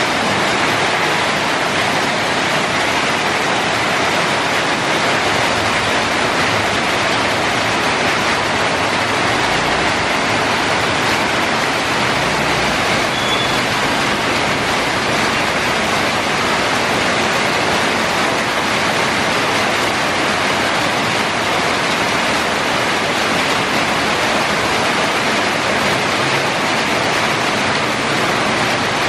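Heavy tropical downpour: rain pouring down in a loud, steady hiss.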